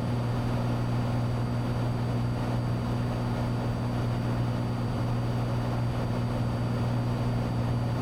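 Cessna 182T's six-cylinder Lycoming IO-540 engine and propeller droning steadily in flight, heard from inside the cabin.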